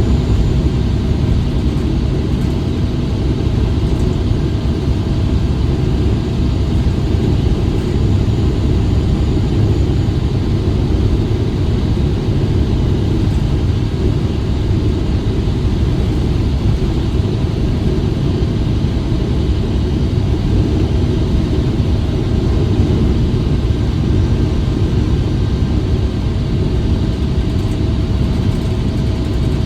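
Blizzard wind blowing hard, a loud, steady low rumble.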